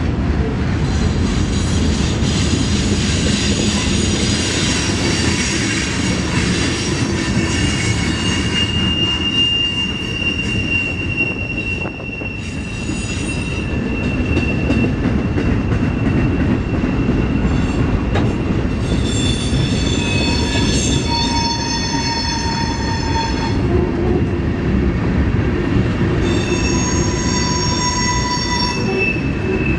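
Freight cars (boxcars, then tank cars) rolling past on steel rails with a steady rumble. Shrill wheel squeal comes and goes over the top: one long tone about a third of the way in, then stronger squeals in the last third.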